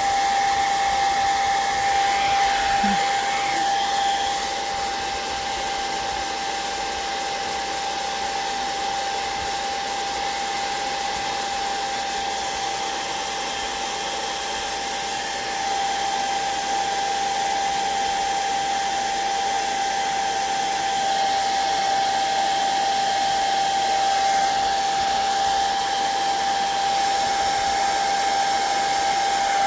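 Hair dryer blowing steadily with a constant whine, drying wet watercolor and ink on paper. Its loudness shifts a little, dropping about four seconds in and rising again about halfway.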